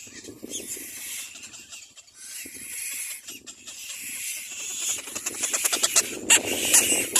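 Little black cormorant chicks calling and squabbling in the nest with raspy, hissing sounds, breaking into a fast run of harsh clicking calls that gets louder in the last couple of seconds.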